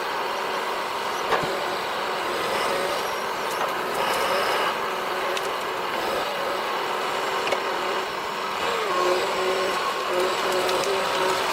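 Heavy machine's engine running steadily with a whining tone, the pitch dropping and settling about nine seconds in, with a few light knocks.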